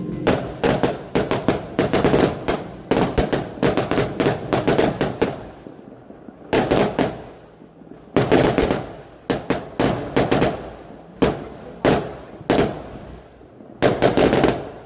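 Fireworks going off: a rapid run of sharp bangs and crackles for the first five seconds or so, then single loud bursts about a second apart.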